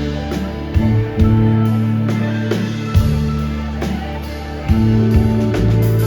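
Live rock band playing an instrumental passage: held bass notes and keyboard chords under guitar, with drum hits every second or two.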